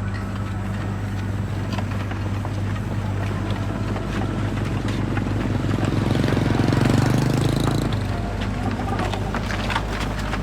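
An engine running steadily, growing louder for a couple of seconds about halfway through, then settling back.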